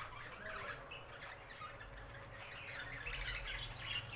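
Pet budgerigars chirping and chattering softly in short scattered calls, with a busier flurry of chirps about three seconds in.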